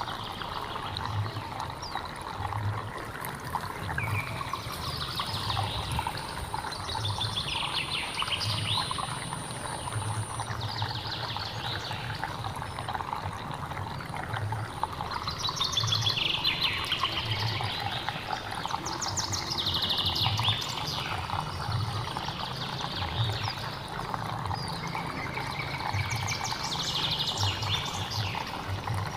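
A hill stream flowing steadily, with a songbird singing a repeated short phrase every few seconds, several of them falling in pitch. A thin, high, steady insect-like whine runs under the first third.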